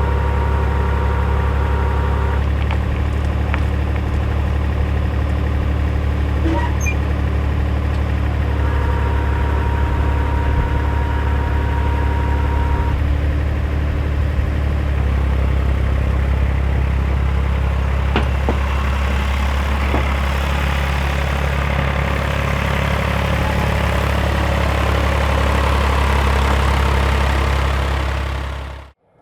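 A backhoe's engine running steadily at a constant speed, with a thin whine that comes and goes twice. The sound cuts off suddenly near the end.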